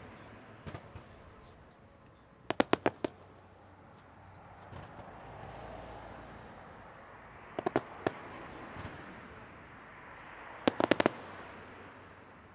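Fireworks going off in three quick volleys of four to six sharp bangs each, a few seconds apart, with a few fainter pops near the start, over a steady low rush of background noise.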